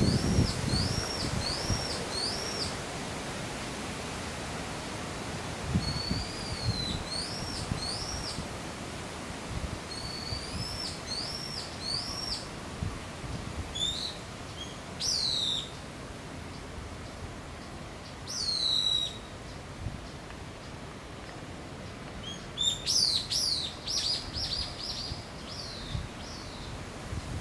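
A songbird calling: short arched whistled notes repeated in groups of three or four, then a couple of single notes that sweep downward, and a quick run of notes near the end.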